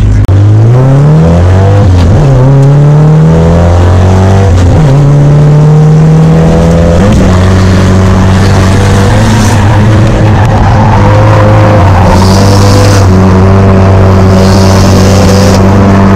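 Drift car's engine heard from inside the cabin, revving up from a steady low note, its pitch climbing and dropping back about two, five and seven seconds in, then held high. Tyre squeal comes in twice near the end.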